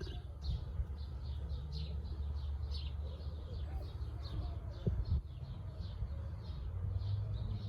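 A small bird chirping over and over, about three short high chirps a second, over a steady low rumble, with a couple of soft knocks about five seconds in.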